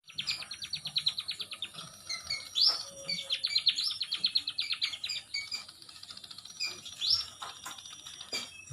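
Munias (burung emprit) chirping: fast trains of short high notes, about nine or ten a second, broken by a few rising call notes around three and seven seconds in.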